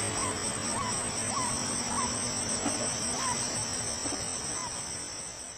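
Steady, high-pitched chorus of insects such as crickets, with a faint short chirp repeating about every half second underneath; it fades out near the end.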